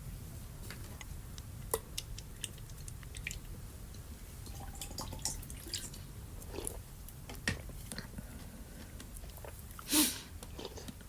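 A person eating a cold, iced dish: quiet chewing with scattered small clicks and clinks, and one louder, short rushing sound about ten seconds in.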